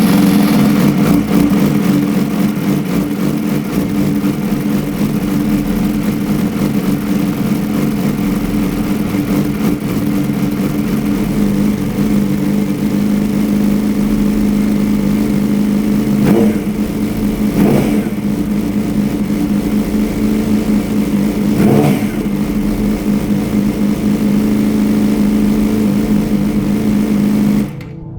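Yamaha R6's inline-four engine idling loudly through its shortened exhaust headers, with three short throttle blips in the second half, then shutting off suddenly near the end.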